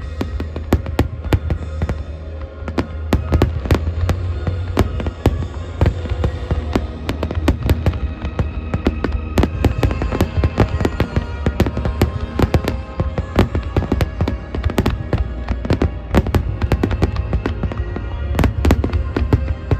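Aerial fireworks show bursting: a dense run of sharp crackles and bangs with no let-up over a continuous deep rumble, with music playing alongside.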